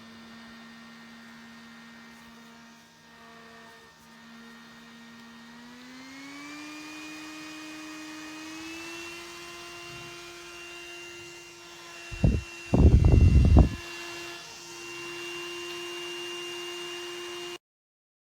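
Battery-powered mini handheld fan motor whining steadily, stepping up in speed twice to a higher-pitched whine. About twelve seconds in, a short loud rush of air noise comes twice, then the whine runs on until it cuts off suddenly.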